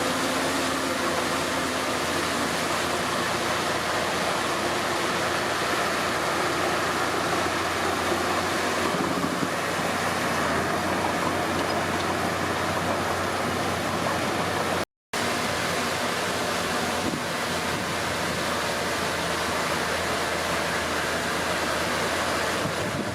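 Komatsu D31P bulldozer's diesel engine running steadily at working speed, with the broad rushing noise of the machine at work. The sound cuts out completely for an instant about fifteen seconds in.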